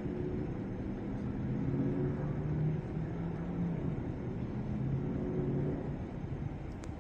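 Motor vehicle engine running on the street, a low hum whose pitch shifts every second or so. A brief sharp tick near the end.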